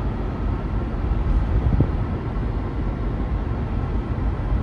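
Steady low road and engine noise of a car driving along a highway, heard from inside the cabin.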